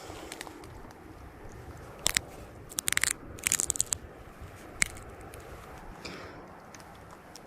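Glow stick being bent and fitted onto a fishing rod: a few short bursts of crisp crackling clicks, the loudest about two to four seconds in, with a single click near five seconds.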